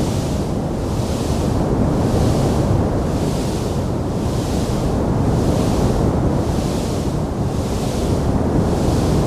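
Wood fire burning in a stone fireplace: a steady low rush with a hiss that swells and fades a little more than once a second, and no sharp crackles standing out.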